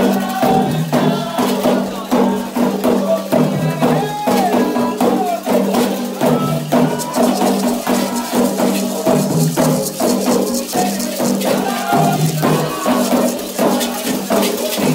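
Candomblé ritual music: fast, steady percussion with rattles, and voices singing over it.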